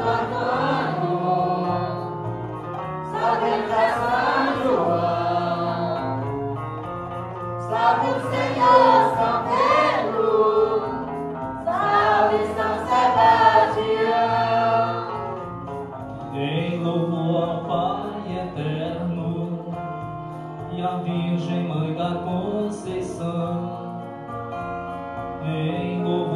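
A group singing a Santo Daime hymn together to instrumental accompaniment. About sixteen seconds in, the voices give way to the instruments alone.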